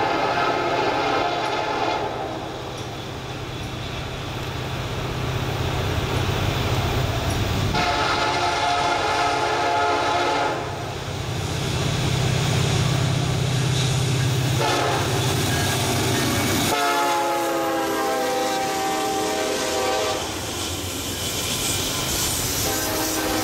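A Norfolk Southern intermodal freight led by an EMD SD70M-2 diesel locomotive sounds its horn in long blasts, then a short one, then a long one that sounds lower as the locomotives pass, with another blast starting near the end. The locomotives' diesel engines hum deeply as they go by. Then the double-stack container cars roll past with wheel clickety-clack.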